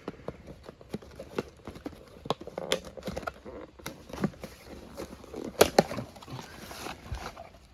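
Handling of new snowmobile pistons and their packaging: scattered small clicks, knocks and rustles, with two louder knocks a little past halfway.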